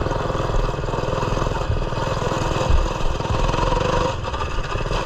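Small single-cylinder four-stroke engine of a Coleman mini bike running at a steady speed under way on a dirt trail. Its rapid, even firing pulses stay steady throughout.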